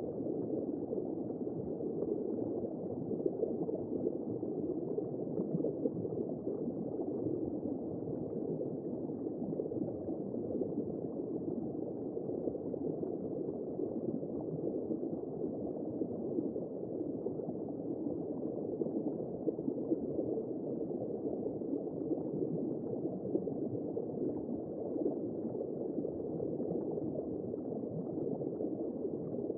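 Womb-sound white noise for soothing a baby: a steady, low, muffled rushing noise with no clear beat or break.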